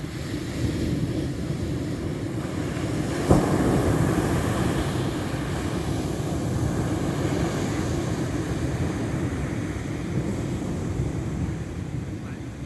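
Ocean waves washing in steadily, with wind rumbling on the microphone; a sharp short knock about three seconds in, after which the wash swells a little.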